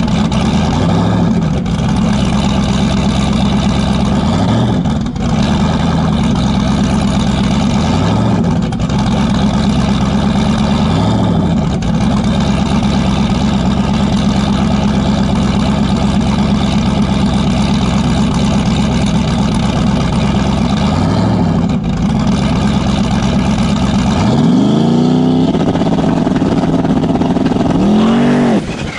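A second-gen Camaro drag car's engine runs loudly, with a few brief revs. Near the end it sweeps up and down in pitch through several hard revs, then cuts off suddenly.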